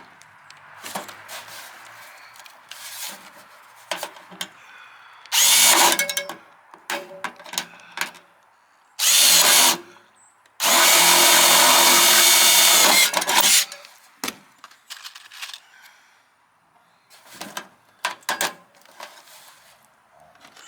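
Power drill running in three short bursts, the longest about three seconds, at a steady whine. Clicks and handling clatter come between the bursts.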